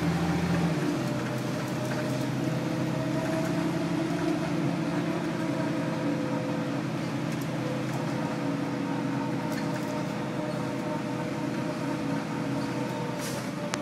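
A 2000 Nova Bus LFS with a Detroit Diesel Series 40 diesel engine, running steadily and heard as a constant drone with a few steady hum tones. Its pitch barely changes.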